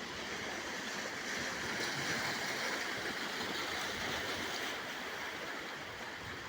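Steady rushing of seawater along a moving boat, swelling a little in the middle and easing toward the end.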